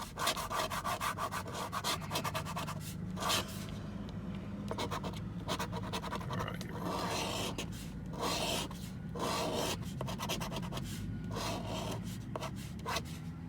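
Scratch-off lottery ticket being scratched: rapid, repeated scraping strokes in quick runs with short pauses, as the latex coating is rubbed off to reveal the numbers and symbols.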